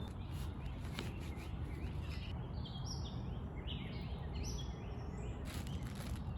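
A songbird calling in a quick series of short, sweeping high notes through the middle, over a steady low hum of distant traffic. A few faint clicks sound now and then.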